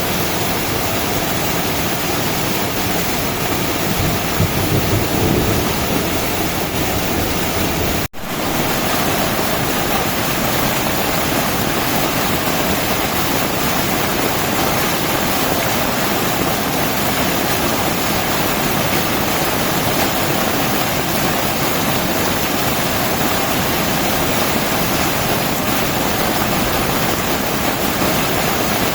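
Steady heavy rain pouring in a thunderstorm, with a brief low rumble about five seconds in. The sound drops out for an instant about eight seconds in, then the rain carries on unchanged.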